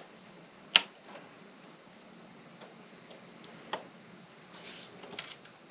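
A few sharp clicks and taps of small metal and plastic click-pen kit parts being handled and fitted together, the loudest about a second in, with a brief rustle near the end, over a faint steady high whine.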